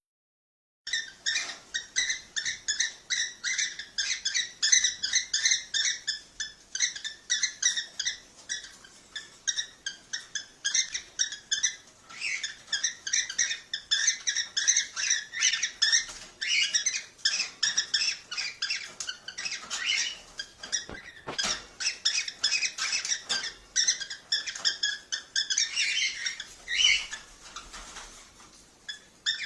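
Cockatiel chirping in fast repeated calls, about four a second, starting abruptly about a second in and thinning out briefly near the end.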